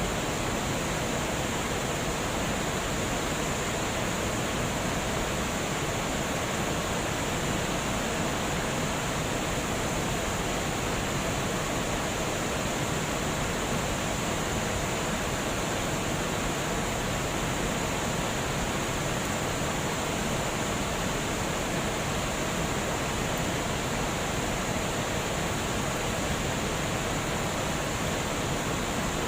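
Water pouring steadily over a dam weir, a constant even rushing with no breaks.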